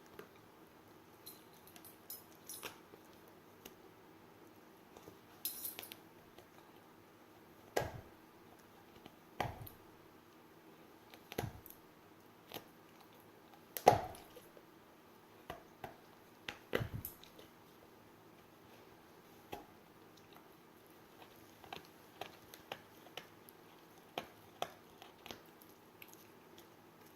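A dog biting and chewing a toy animal: scattered, irregular soft squishes and knocks, the loudest about 14 seconds in.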